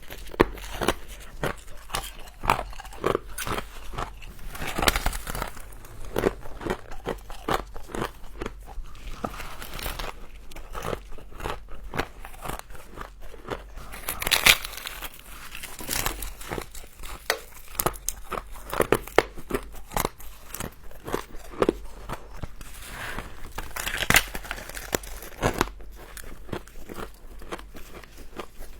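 Close-miked biting and chewing of frost: dense, irregular crisp crunches and crackles.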